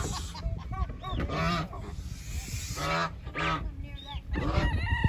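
Chinese geese honking repeatedly in a string of loud calls, the adults agitated and defending their goslings as someone reaches into the nest.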